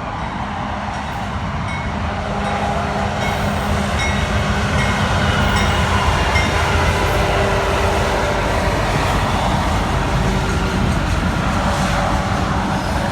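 Norfolk Southern freight train passing at speed close by: a steady loud rumble and clatter of wheels on rail, building slightly over the first few seconds, with faint thin squealing tones above it.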